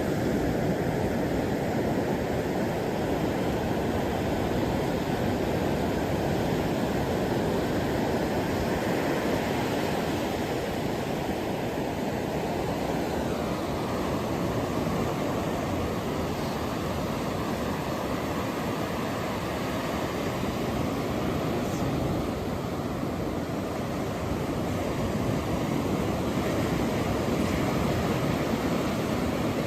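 Ocean waves washing on a shore as a continuous, even hiss with only slight slow swells.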